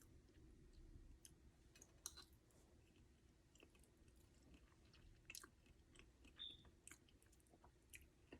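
Faint chewing and mouth sounds of someone eating soft, ripe avocado, with scattered small clicks and smacks.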